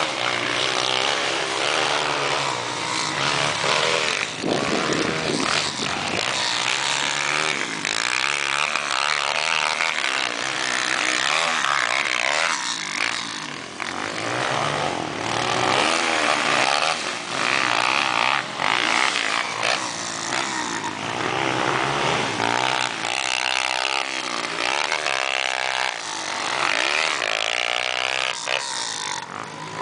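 Several motocross motorcycles running at once, their engines revving up and dropping back again and again, overlapping one another.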